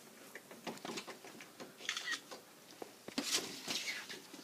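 Faint, irregular scratching and clicking from a bird trapped inside a wall cavity, with a brief thin chirp-like note about two seconds in.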